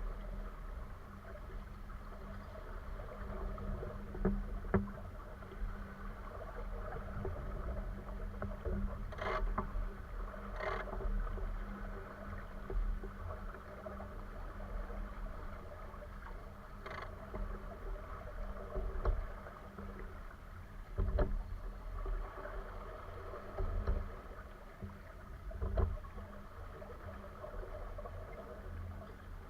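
A boat moving on a lake: a steady low rumble and hum with water sounds against the hull, and occasional short knocks.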